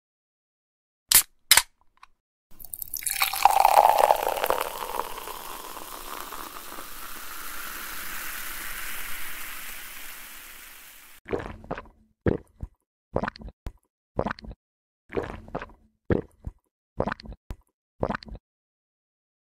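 Two sharp clicks, then beer pouring into a glass with a fizzing hiss for about eight seconds, followed by a run of short, separate wet sounds.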